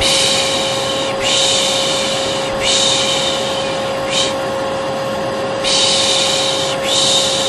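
A vacuum cleaner runs with a steady hum under a person's repeated long 'shhh' shushing. Each shush lasts about a second and a half, with short breaks between. This is the 'piş piş' sound used to lull a baby.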